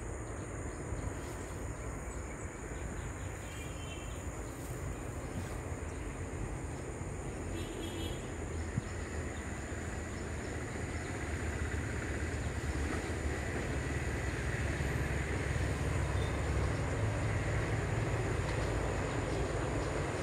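Sri Lanka Railways Class S12 diesel multiple unit approaching out of sight: a low rumble that grows steadily louder through the second half. Two brief high chirps sound early on.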